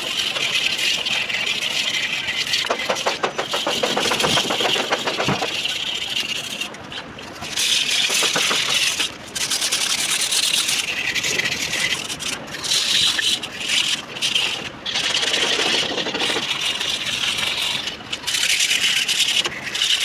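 A hissing spray or air jet runs in spells of one to four seconds, stopping and starting several times, as the bores of a Cummins engine block are washed. From about three seconds in, a fast rattling scrub runs for a couple of seconds.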